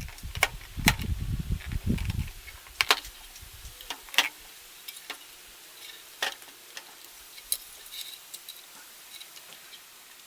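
Scattered sharp clicks and taps, like small hard parts being handled, with a few low thumps in the first two seconds.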